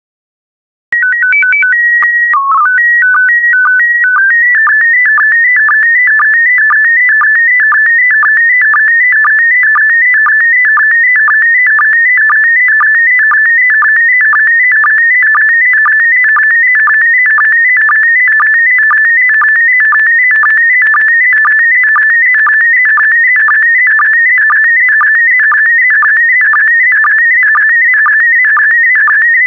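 PD120 slow-scan television (SSTV) signal. About a second in, a short header of steady tones starts it. Then comes the image scan: a fast warbling tone around 2 kHz, broken about twice a second by a lower sync pip.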